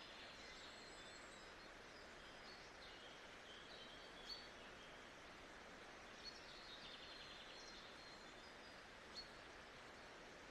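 Faint nature-sound ambience: a steady, even hiss with small birds chirping and trilling throughout, and a few sharper single chirps standing out.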